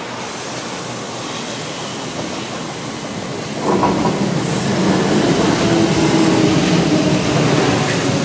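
Kintetsu Nara Line electric train running through the station. A steady rush of its approach jumps suddenly louder about three and a half seconds in as the cars pass close by, with a dense rumble and clatter of wheels on the rails.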